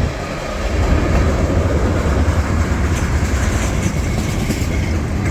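Freight train rolling past, a loud steady rumble of railcars on the rails.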